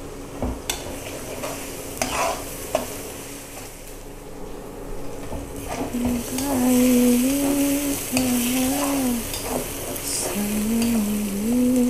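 A metal spatula stirs and scrapes a ground spice paste sautéing in oil in a wok, with light clicks of metal on the pan. The sizzling grows louder about halfway through. In the second half a low tone steps up and down in pitch over the frying.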